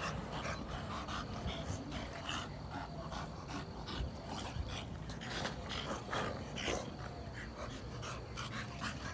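Dogs panting and scuffling as they play-fight, with a run of short, irregular rustling and scratching noises.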